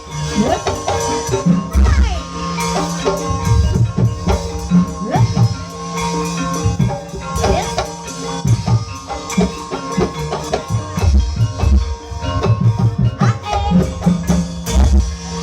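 Gamelan music accompanying an ebeg (kuda kepang) dance: a busy pattern of hand drums with ringing tuned metal percussion and gliding melodic lines over it.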